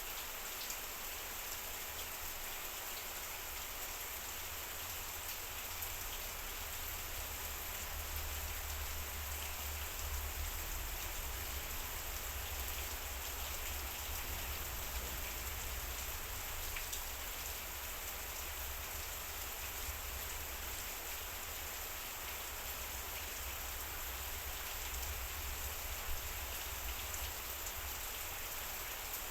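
Heavy rain drumming steadily on a metal roof, with scattered sharper drop ticks over a low rumble.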